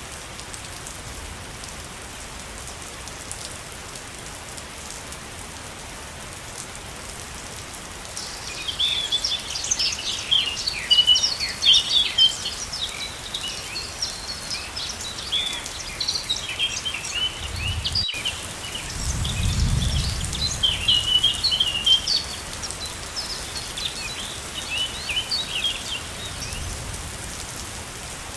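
Steady rushing of a waterfall, with birds chirping in a busy chorus from about eight seconds in that thins out near the end. A low rumble swells briefly around the middle.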